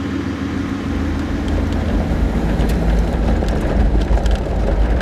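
4x4 vehicle driving on a dirt road: the engine runs steadily, and a heavy low rumble of tyres over the rough dirt grows louder about a second in.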